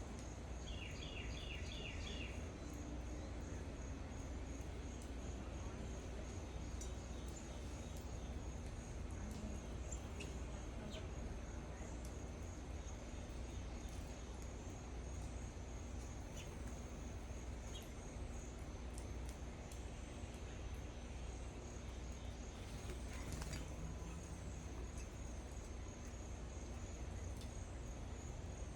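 Outdoor yard ambience: an insect's steady, high, pulsing trill runs throughout over a low steady rumble, and a bird calls a quick series of repeated notes near the start.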